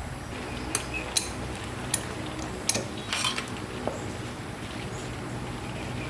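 Metal tools and parts being handled, with about five sharp clinks in the first half over a steady low hum.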